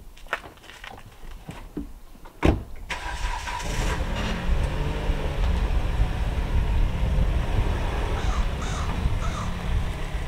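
A car door shuts with one loud thud about two and a half seconds in. Right after it the red sedan's engine starts and keeps running steadily while the car moves off.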